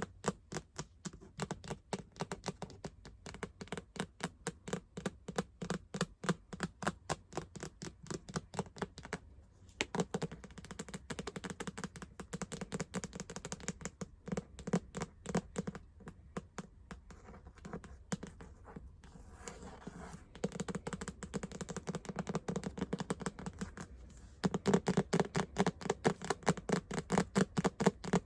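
Fast ASMR tapping, several quick taps a second, with stretches where scratching fills in between the taps.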